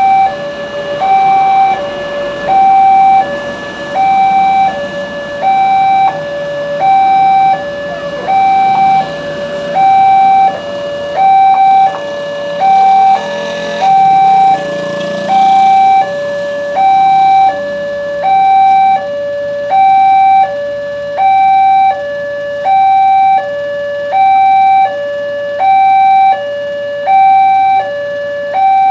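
Railway level-crossing warning alarm sounding: an electronic two-tone signal that alternates steadily between a higher and a lower note, each held about 0.7 s, warning that a train is approaching.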